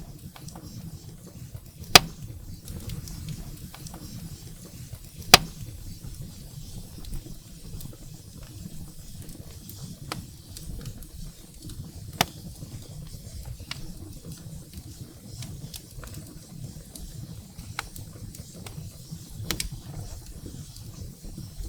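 Wood fire burning in a fireplace, with a steady low rumble and scattered sharp crackling pops from the firewood, the loudest about 2 and 5 seconds in.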